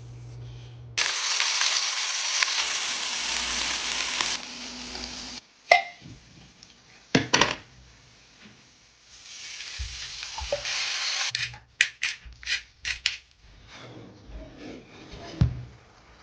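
Food sizzling in a hot pan in two loud stretches that start and stop abruptly. Between them are sharp knocks and clicks of utensils and cookware, with a heavier knock near the end.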